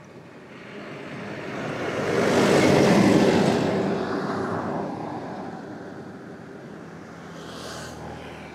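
A vehicle passing close by on the road, its noise swelling to a peak about three seconds in and then fading away, with a short hiss near the end.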